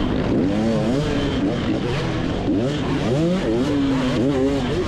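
Two-stroke motocross bike engine heard on board, its pitch climbing and dropping back several times as the throttle is opened and closed and gears change around the track.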